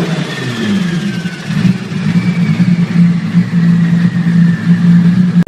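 Turbocharged car engine running steadily after its revs drop away at the start, with a faint high whine slowly falling in pitch.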